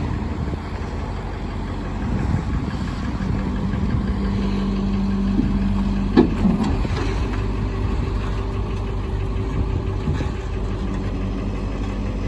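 Diesel engine of a 1996 International S4700 truck idling steadily, with a steady hum over it for a few seconds and a single sharp click about six seconds in.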